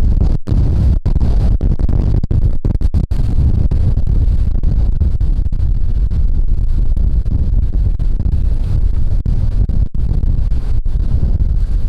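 Gale-force wind buffeting the camera microphone: loud, continuous low rumbling wind noise, with a few brief dips in the first three seconds.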